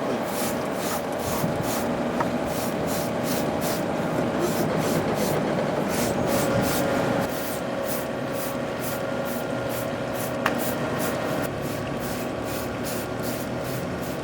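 A machine tool working metal on an engine part: a steady machine tone with a rasping hiss that pulses about three to four times a second.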